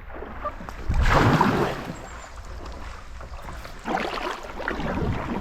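Water splashing from sit-on-top kayak paddle strokes, louder about a second in and again over the last second and a half.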